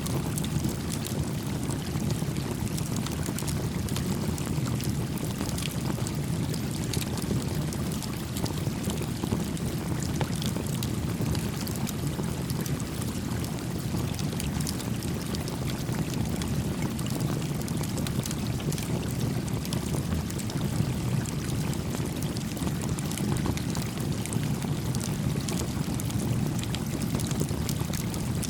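Small wood campfire crackling with frequent sharp pops over the steady low rush of a gently flowing stream.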